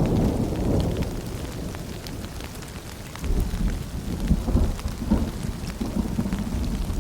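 Steady rain with fine pattering drops and rolling thunder: one low rumble dies away over the first few seconds, and another builds about three seconds in.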